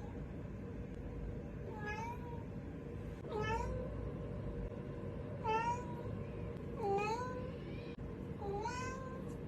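A cat meowing five times, about one and a half seconds apart, each meow rising and then falling in pitch, over a steady low background hum.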